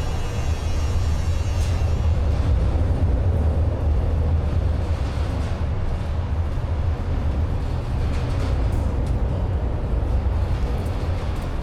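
Downtown street ambience: a steady low rumble of city traffic with a haze of general street noise.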